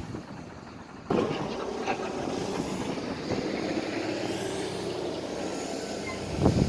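Heavy machinery at an aggregate crushing site running with a steady mechanical din full of small clicks and knocks. It starts abruptly about a second in, and there is a sharper knock near the end.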